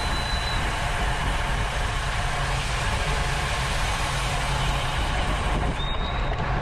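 Steady wind rushing over a bike-mounted camera's microphone as a road bike races along, with faint thin tones now and then on top.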